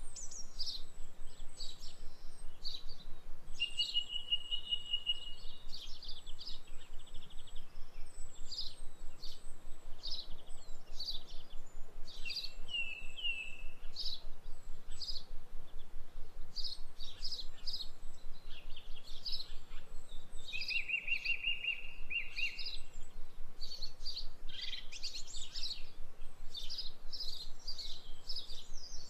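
Small birds chirping continuously in many short high calls, broken by a few longer trills.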